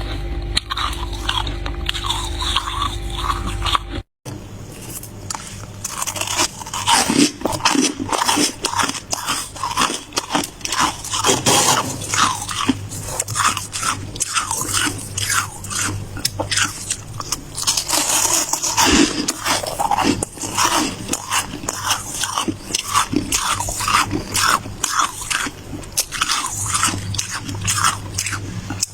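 Ice being bitten and chewed close to the microphone: rapid, repeated crunching, about three crunches a second. About four seconds in, a steady low hum stops and there is a brief gap, after which the crunching carries on.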